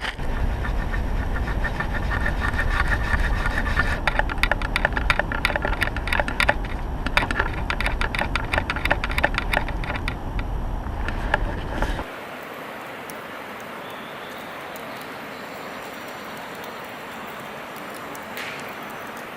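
Wood fire crackling in a campfire stand, with a low rumble of wind on the microphone. It gives many sharp pops and snaps. About twelve seconds in it cuts to a quieter steady hiss.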